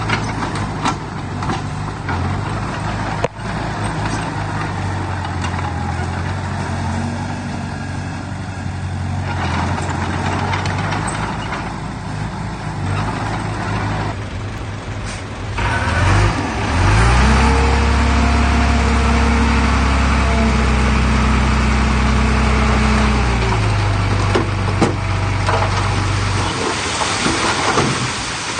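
Heavy diesel engine of earthmoving machinery running. About halfway through it revs up, holds the higher pitch for several seconds, then drops back near the end. There is one sharp knock a few seconds in.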